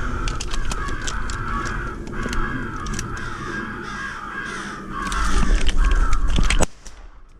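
Crows cawing in a dense, overlapping, continuous chorus, loud, cutting off suddenly near the end.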